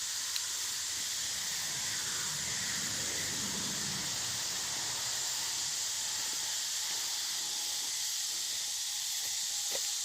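Steady high-pitched hiss of outdoor background noise, even throughout, with faint low rustling about two to four seconds in.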